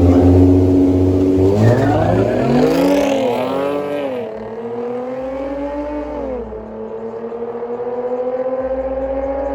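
Car engine revving, then accelerating through the gears: its note swoops up and down quickly a couple of seconds in, then climbs steadily and drops at each upshift, about four and six seconds in.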